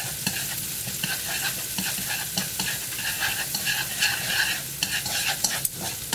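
Minced shallots sizzling in hot oil in a nonstick wok, being fried until fragrant, while wooden chopsticks stir them and tap against the pan now and then.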